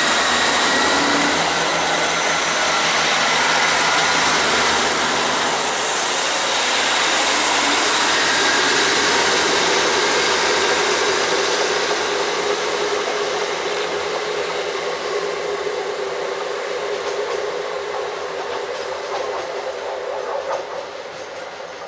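Train passing close by: a loud rush of wheels on rail with a steady whine, which fades away over the second half as the train draws off.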